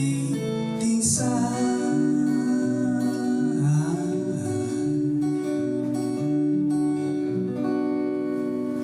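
Live band playing the closing bars of an acoustic-guitar-led pop song, with long held chords and a sung note drawn out over them. The music ends near the end.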